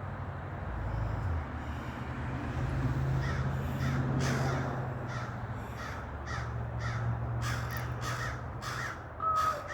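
Large birds calling from a tree: a run of short, repeated, unusual calls, coming thicker from about three seconds in. A steady low hum sits underneath.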